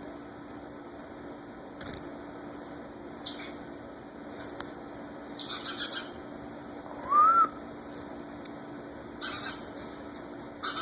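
Small bird chirping in short, scattered calls, with one louder rising-and-falling call about seven seconds in.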